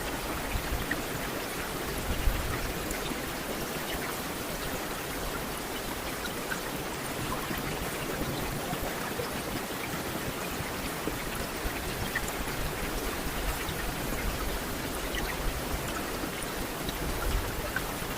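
Steady rain: a continuous hiss of falling water with small drops ticking here and there.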